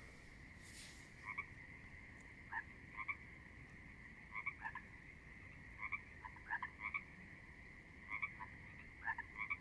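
Pond frogs calling: short paired croaks, roughly one every second, over a steady high-pitched chorus.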